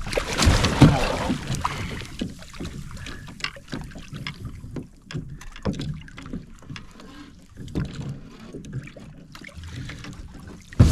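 A big sea bass being hauled aboard a fishing kayak: splashing and a heavy knock against the hull in the first two seconds, then scattered knocks and handling noise.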